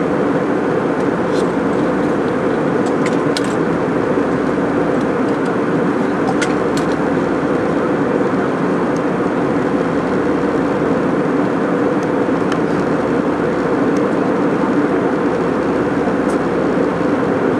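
Steady airliner cabin noise: the engines and rushing air make an even, loud rumble, with a few faint clicks now and then.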